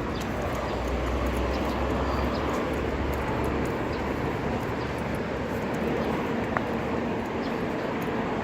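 Steady street traffic noise, with a low rumble that swells about a second in and fades after about three and a half seconds, and a single sharp click a little after six seconds.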